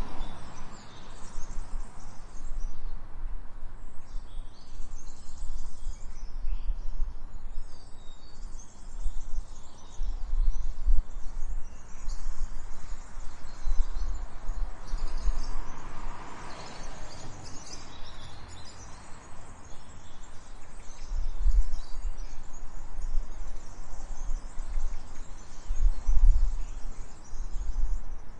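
Small birds chirping on and off over a low, uneven rumble of street background. About halfway through, a broader swell of noise rises and fades.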